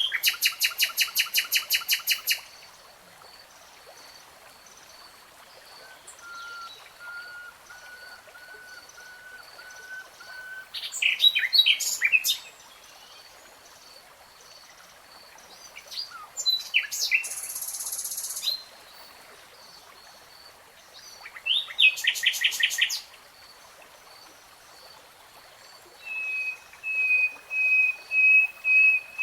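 Nightingale singing in separate phrases a few seconds apart: fast trills of repeated notes, long steady whistled notes, and a short buzzy phrase. A faint, even run of high pips carries on underneath.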